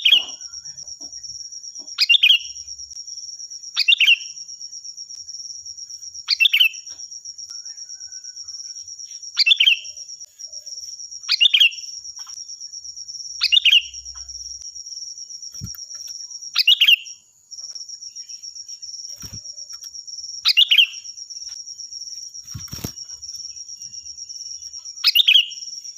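Sooty-headed bulbul (kutilang) giving a short, loud call about every two seconds, around ten times, over a steady high-pitched insect trill.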